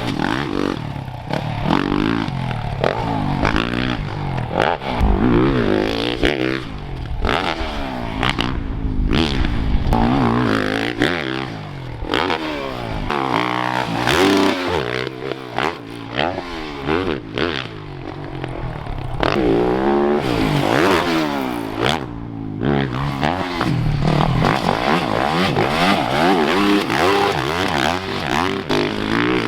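Motocross dirt bike engine revving hard, its pitch climbing and dropping again and again as it accelerates, shifts and backs off around the track, with a sharp knock about halfway through.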